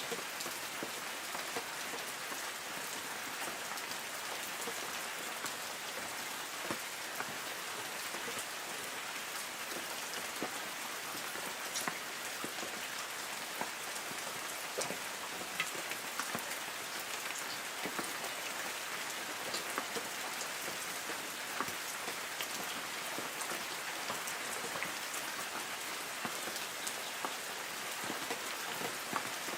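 Light rain falling steadily on forest trees: an even hiss of rain with many individual drops ticking sharply on leaves.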